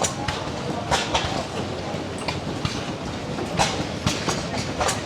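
Antique hit-and-miss stationary gas engines running, with a clatter of sharp exhaust pops at uneven intervals over a steady mechanical background.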